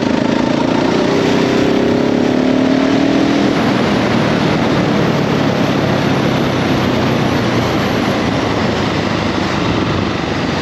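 KTM 690 SMC-R's single-cylinder engine rising in pitch under acceleration for the first few seconds, then running steadily at speed under a loud rush of wind over the microphone.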